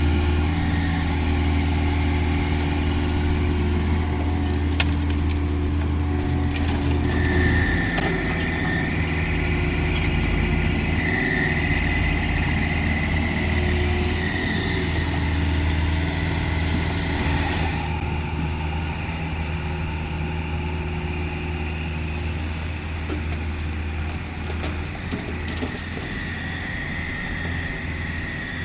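Caterpillar 305.5E2 mini excavator's diesel engine running steadily as it digs and loads. A high whine rises in and out twice, about a quarter of the way in and near the end.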